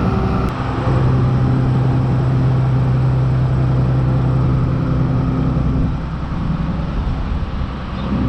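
Diesel engine of farm machinery running steadily under light load, with a held engine tone that eases off about six seconds in.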